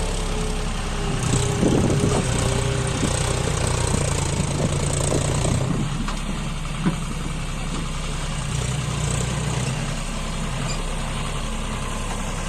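John Deere tractor's diesel engine running steadily with a low rumble.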